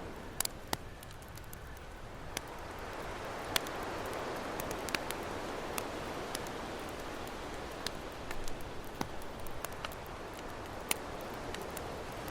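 Campfire crackling, with sharp pops scattered irregularly throughout, over the steady wash of ocean waves that swells a couple of seconds in and slowly ebbs.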